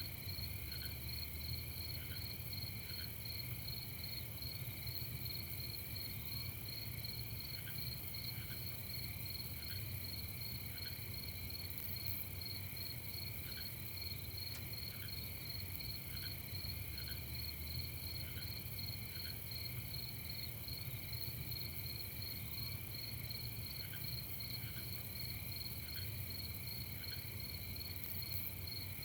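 Crickets chirping in a steady night chorus, a rapid pulsing trill on top of continuous high-pitched trilling. Short lower notes come every second or two, often in pairs, over a faint low rumble.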